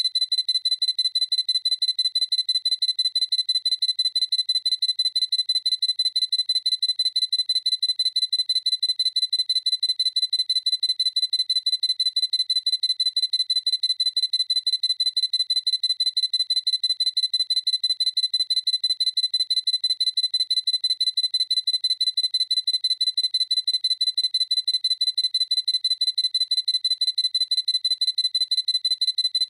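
Sony A7C camera's autofocus confirmation beep, repeated as a fast, even string of high-pitched electronic beeps with no change in pitch or level.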